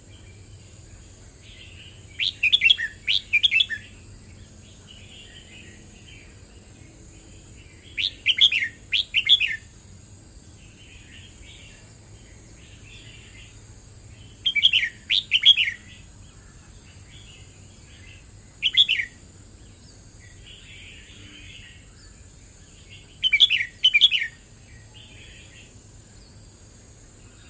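Red-whiskered bulbul singing: short, loud bursts of quick whistled notes, one about every five or six seconds, with softer chirping between them.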